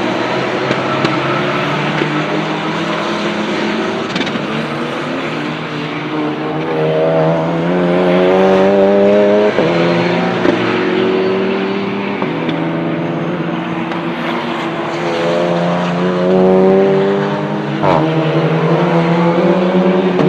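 Porsche 911 GT3 Cup race cars' flat-six engines accelerating hard through the gears, the note climbing and then dropping back at each upshift, several times over.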